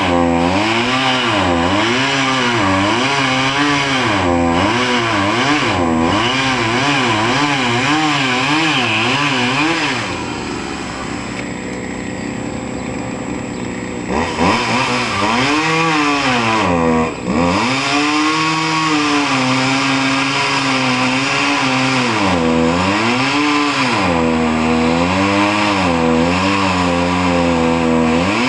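Chainsaw engine running while cutting wood, its pitch rising and falling with the throttle and the load. About ten seconds in it drops to a lower, steadier idle for a few seconds, then revs and cuts again.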